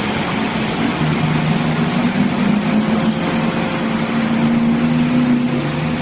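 A heavy vehicle's engine running steadily at a held pitch over a loud rushing noise, the hum strengthening about a second in.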